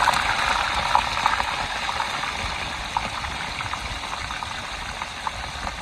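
Hot cooking oil sizzling with scattered small crackles, slowly dying down.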